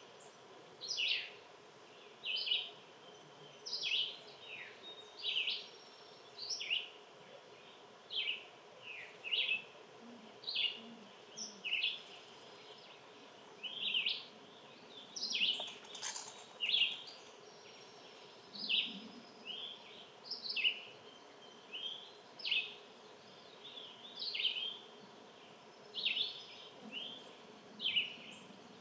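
Songbirds chirping: a steady series of short, sharp calls that sweep downward, about one or two a second.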